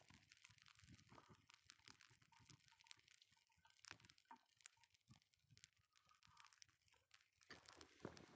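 Wood campfire crackling faintly, with scattered small pops and snaps from the burning wood.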